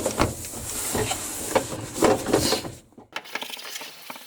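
Scrubbing and handling of a plastic washing-machine part: irregular rubbing and light knocks. About three seconds in the sound drops suddenly to a few quieter clicks.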